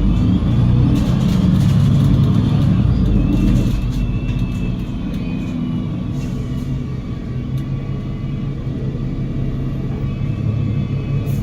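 Cummins L9 inline-six diesel engine of an Alexander Dennis Enviro500 MMC double-decker bus, driving through a Voith DIWA automatic gearbox. The engine works loudly at first, eases off a few seconds in, then settles to a steadier low drone, with a faint whine above it.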